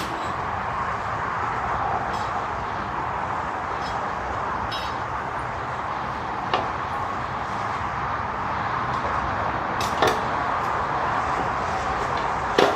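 Ongoing exhaust work at a muffler shop: a steady running noise with a few sharp metallic clanks, about halfway in, about three quarters of the way in and near the end.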